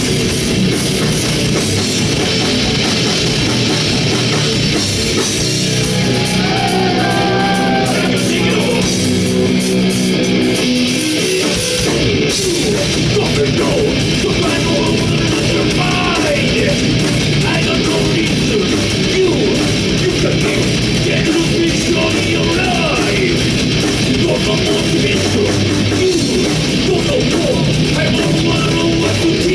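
Loud live rock band playing a song.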